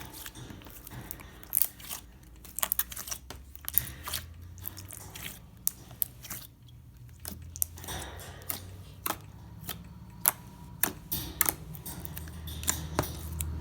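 Purple glitter slime being stretched and squeezed by hand, giving irregular sticky clicks and small pops, over a low steady hum.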